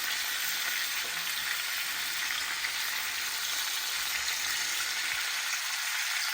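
Seared chicken thighs and freshly added sliced peppers, onions and carrots sizzling in olive oil in a hot pan: a steady hiss.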